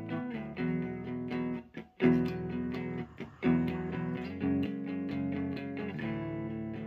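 Fender Stratocaster electric guitar playing ringing chords and notes. It drops out briefly twice, about two and three seconds in, each time coming back with a hard, loud strum.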